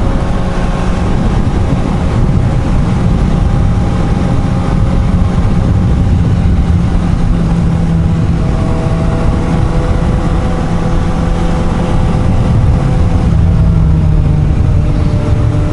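Suzuki GSR750 inline-four motorcycle engine running at steady riding revs, its pitch drifting only slightly, over a steady rush of wind and road noise.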